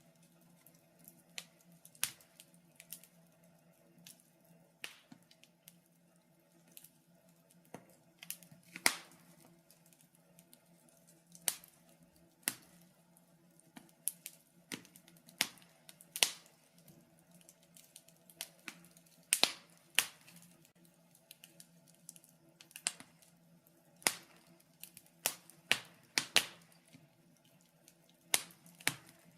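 Wood fire in a fireplace crackling, with sharp pops at irregular intervals, a few of them louder, over a faint steady hum.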